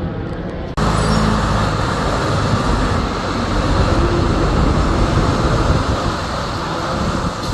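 Semi truck on the road, with steady engine and road noise. It starts abruptly less than a second in.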